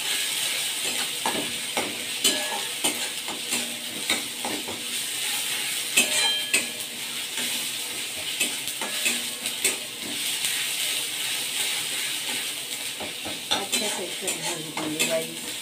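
Onion paste with ginger-garlic paste and green chilli sizzling in hot oil in a metal kadai while being fried for a masala base. A spatula scrapes and knocks against the pan at irregular moments, with one sharper knock about six seconds in.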